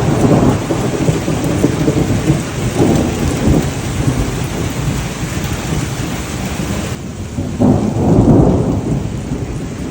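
Heavy summer thunderstorm: steady rain hissing down with rolling thunder, rumbles at the start and about three seconds in, and a louder one near the end. The rain's hiss thins suddenly about seven seconds in.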